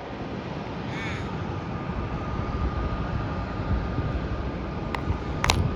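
A crow gives a short caw about a second in, over a steady low rumble. A faint steady whine is also heard, and a sharp click or second short call comes near the end.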